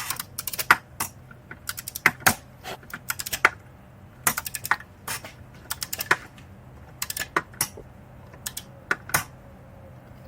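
Hand tools clicking as exhaust manifold bolts are tightened: short, irregular runs of sharp metallic clicks, fewer near the end.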